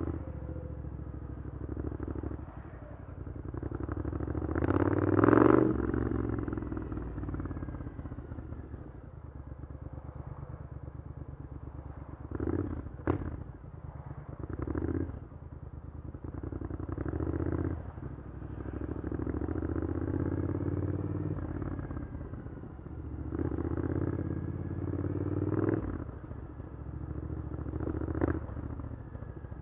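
Triumph Scrambler 900's parallel-twin engine through an Arrow exhaust, repeatedly pulling up through the revs and easing off again as the bike is ridden, with the loudest pull about five seconds in. A sharp click about thirteen seconds in and a smaller one near the end.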